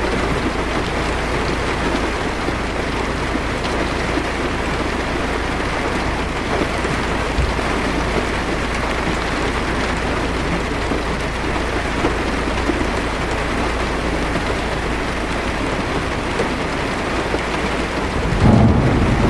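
Heavy rain pattering steadily on a car's roof and windshield, heard from inside the car. A low thunder rumble swells in near the end.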